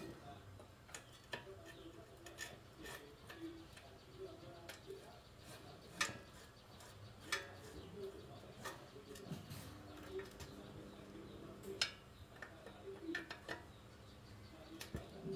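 Faint scattered clicks and light taps, over short, low cooing notes from a bird repeating in the background.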